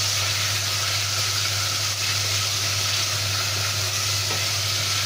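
Chicken pieces and garlic sizzling as they sauté in a hot stainless steel pot, stirred with a wooden spatula: a steady frying hiss over a steady low hum.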